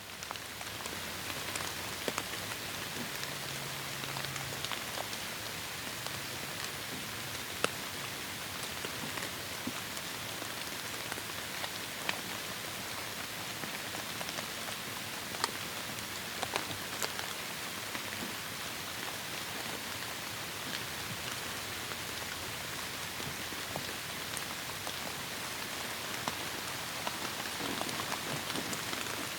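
Heavy rain falling steadily in a forest, an even hiss scattered with sharper individual drop hits. It swells up over the first second, then holds steady.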